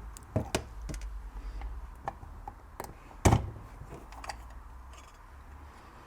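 Scattered small clicks and taps of a microphone and its parts being handled on a workbench, with one louder knock about three seconds in.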